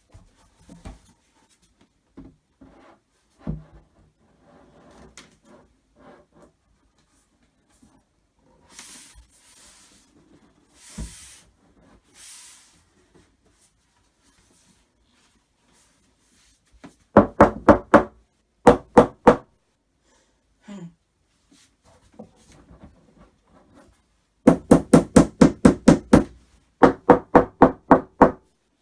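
Rapid runs of loud knocks as the wooden panels of a flat-pack IKEA cupboard are banged together onto their wooden dowels, about five to six blows a second in bursts, mostly in the second half. Softer handling knocks and brief rustling come before them.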